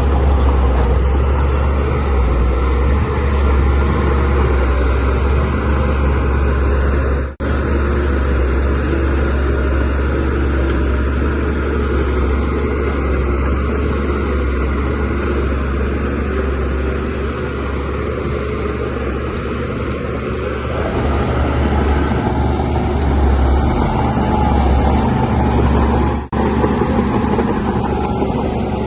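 Shantui DH17C3Pro bulldozer's diesel engine running steadily under load, a deep continuous rumble, broken by two brief dropouts.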